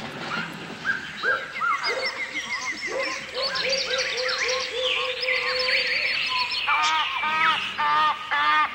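Several birds singing and calling at once: overlapping whistles and chirp series. In the last two seconds one bird gives a fast run of loud calls, about three or four a second.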